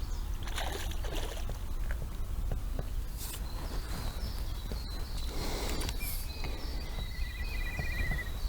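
Two noisy bursts of splashing and handling as a small carp is landed into an inflatable boat, about a second in and again around five and a half seconds, over a steady low rumble. Birds sing and trill in the second half.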